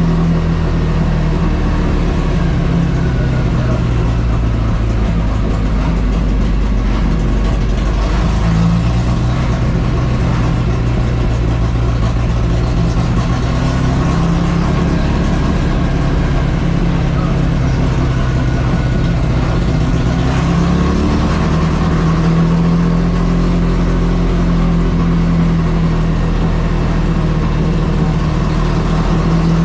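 Carbureted four-cylinder engine of a Chevrolet Caravan race car, heard from onboard, running steadily loud. Its pitch drops about a second and a half in, lifts briefly near nine seconds, drops again, and climbs back up about twenty-one seconds in.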